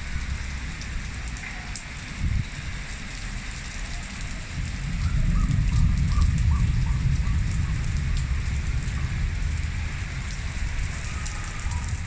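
Steady rain falling on surfaces, with scattered drop ticks over a constant hiss, and a low rumble that swells about five seconds in.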